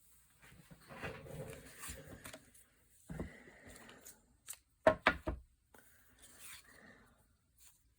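Craft handling sounds: paper and supplies being moved and rustled on a table, with a quick cluster of about three sharp knocks about five seconds in.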